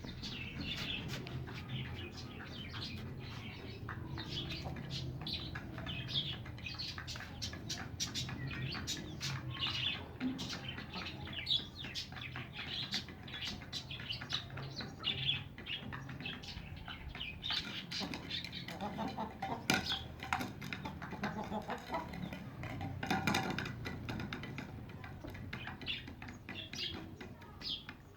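A mixed backyard flock of birds chirping and calling, many short high calls overlapping, with frequent small clicks and knocks among them.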